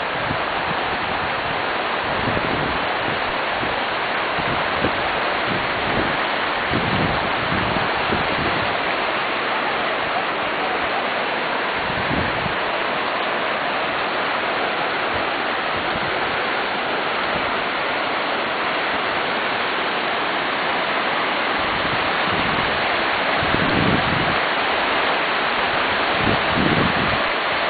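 Flash-flood water rushing steadily through a yard, an even roar of moving water with brief low rumbles now and then.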